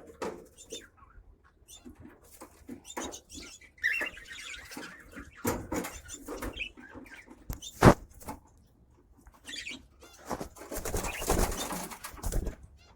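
Small caged pet birds (budgerigars, lovebirds and cockatiels) moving about and feeding, with short scattered chirps and squeaks, light ticks and scratches, one sharp click about eight seconds in, and a busier stretch of rustling near the end.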